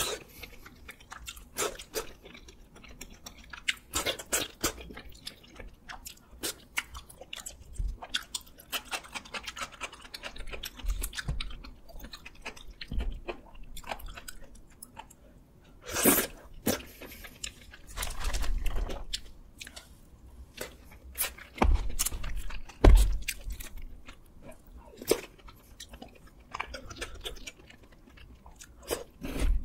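Close-up chewing of rosé tteokbokki, soft chewy noodles and rice cakes in a creamy sauce, with many wet mouth clicks and smacks. A few louder smacks stand out about halfway and two-thirds of the way through.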